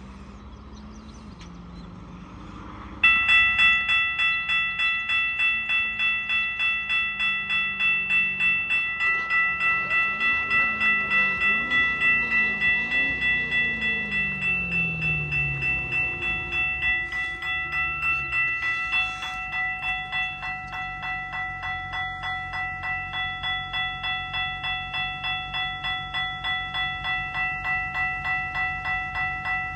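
Railway level-crossing warning bell starting suddenly about three seconds in and then dinging rapidly and evenly, as a freight train approaches the crossing. Lower, fainter sliding tones from the train pass under the bell partway through.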